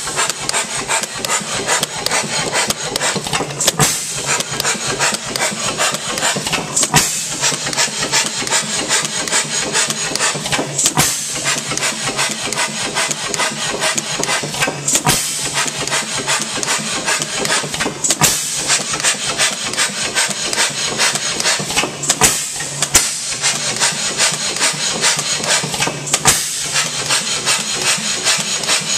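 H.M. Spence hit-and-miss gas engine running, a continuous mechanical clatter with a sharper, louder stroke every three to four seconds as it fires and then coasts.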